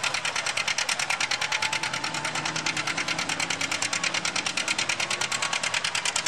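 Antique tractor engine running with a rapid, very even ticking beat of about ten pulses a second.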